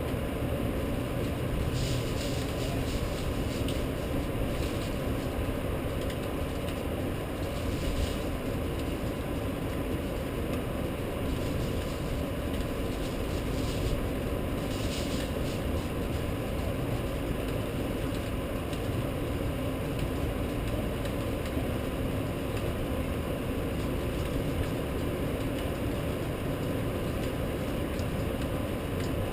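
Steady rushing rumble of a rainstorm, with no thunderclaps, and a faint steady hum running through it.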